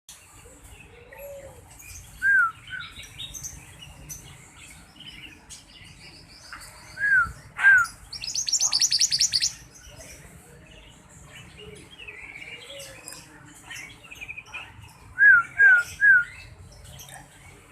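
Sirtu (sirpo) bird calling in an excited, lively way: short arched whistled notes in pairs and a triplet, with a fast, high rattling trill lasting over a second around the middle.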